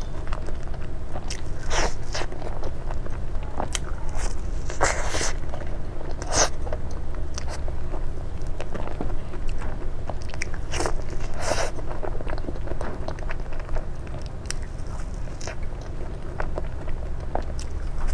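Close-miked eating: crisp bites and crunching chews at irregular intervals, the loudest crunches about five, six and eleven seconds in, over a steady low hum.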